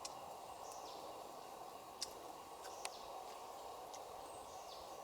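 Outdoor forest ambience: a steady hiss with a few short, high, falling bird chirps and several sharp clicks, the loudest about two seconds in.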